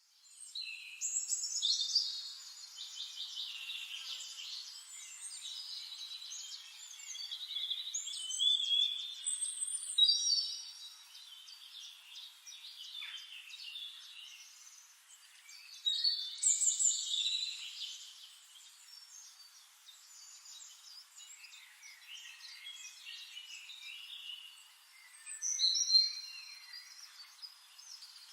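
Several songbirds singing together, overlapping high chirps and rapid trills, with louder bursts of song about 2, 9, 10, 17 and 26 seconds in.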